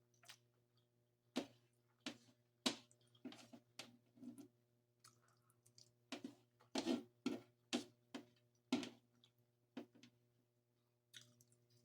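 Close-miked chewing and mouth sounds of someone eating: an irregular string of short, wet clicks and smacks.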